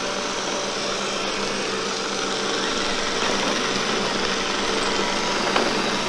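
Roborock S6 Max robot vacuum running in its balanced suction mode as it drives across a tile floor: a steady rushing fan noise with a low hum underneath.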